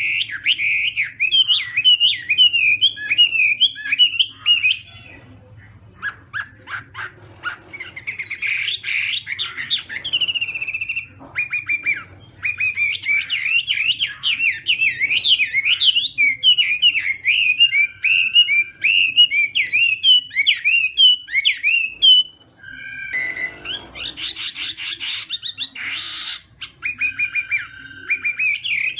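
Chinese hwamei singing: long runs of loud, rapid, varied whistled phrases, broken by a few short pauses.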